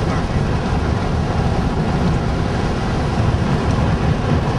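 Steady road and engine noise inside the cabin of a moving van, mostly low in pitch.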